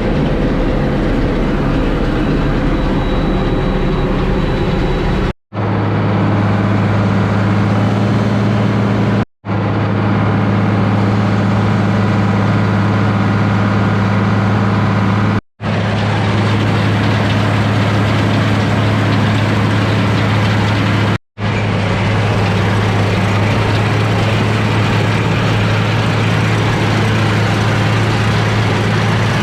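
International 1086 tractor's six-cylinder diesel engine running steadily under load while the hay conditioner cuts, a constant deep hum. It drops out to silence four times, each only a split second.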